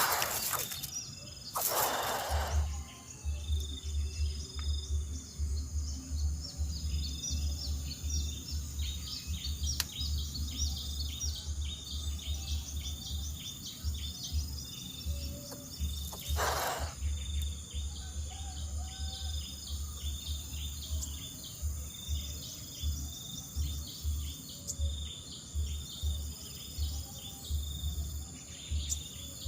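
Many short high bird chirps repeating rapidly, over a low on-and-off rumble, with brief rustling noises at the start and again about halfway through.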